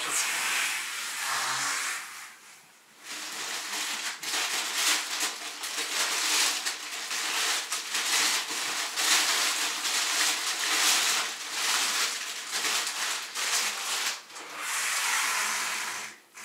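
Plastic grocery bags and food packaging rustling and crinkling in quick, irregular crackles as items are taken out, with a short pause about two to three seconds in.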